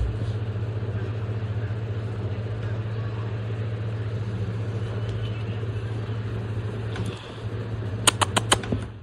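Steady low mechanical hum, like a running motor, with a quick run of about five sharp clicks near the end.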